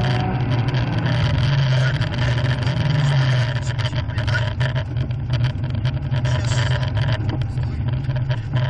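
BMW E30's M42 1.8-litre four-cylinder engine heard from inside the cabin, running hard on the stage, then easing off from about halfway as the car slows, with many short clicks and rattles over it.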